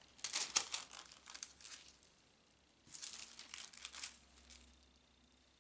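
Cellophane sheets crinkling as they are handled and arranged. There are two spells of rustling, the first about a second and a half long and the second starting about three seconds in.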